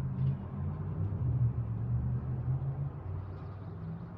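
A motor vehicle's engine running with a low, steady drone, fading near the end.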